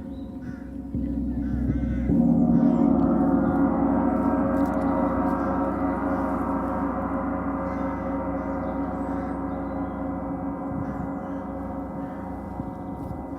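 A large gong struck, swelling in two steps about one and two seconds in, then ringing on with many overtones that slowly fade away.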